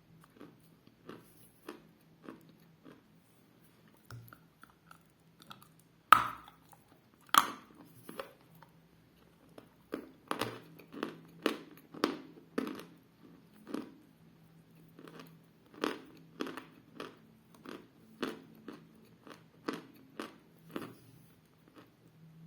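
Someone biting and crunching a dense, hard lump of edible clay called Milky Ice. Two loud, sharp bites come about six and seven seconds in, followed by steady crunchy chewing at about two strokes a second.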